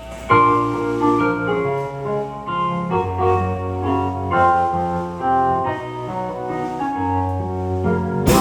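Piano-toned keyboard played live, sustained chords with a melody on top, coming in sharply just after the start.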